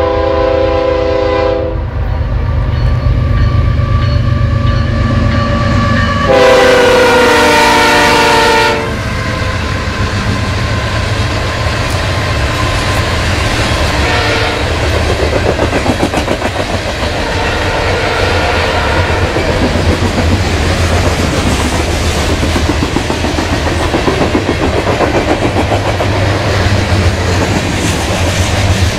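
BNSF diesel locomotives sound a multi-chime air horn: a short blast, then a longer, louder one a few seconds later as the locomotives pass close by. A loaded coal train's hopper cars then roll past with a steady rumble and rhythmic clickety-clack of wheels over rail joints, with fainter horn blasts from further down the line midway.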